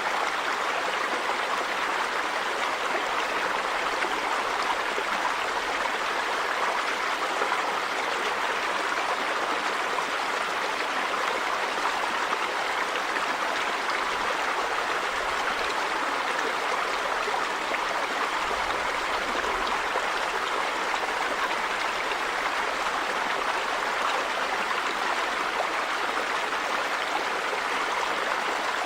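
River water running over rocks: a steady, unbroken rushing.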